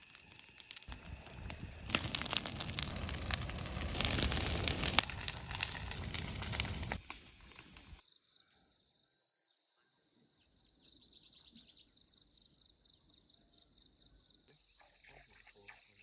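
Leaves and plant stems rustling and crackling loudly for several seconds, handled or pushed through. After an abrupt change, insects buzz steadily with a fast pulsing high trill.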